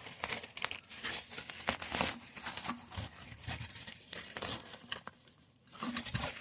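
Irregular crunching, rustling and tearing as a storm-damaged tomato plant is dug and pulled out of the soil, its foliage and roots resisting. There is a short lull near the end.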